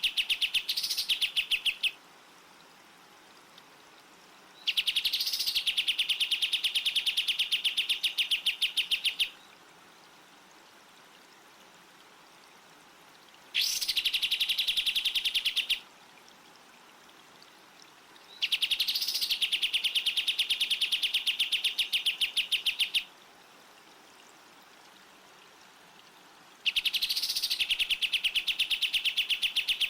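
A songbird's very fast, evenly pulsed high trill, each bout opening with a short rising note and lasting two to five seconds, repeated five times with pauses of a few seconds between.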